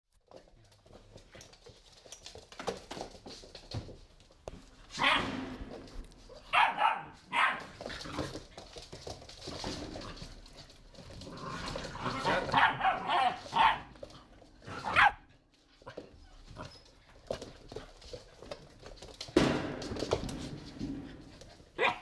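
Pit bull puppies barking and yipping as they play, in scattered short bursts, with quieter stretches between.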